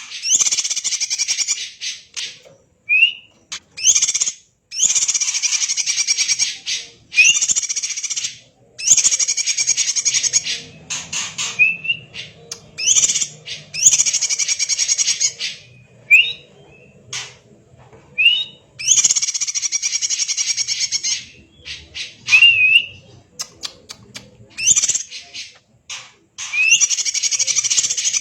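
Cucak ijo (green leafbird) singing over and over in rapid, dense chattering phrases of one to two seconds each, with short gaps. Short rising whistles come between many of the phrases.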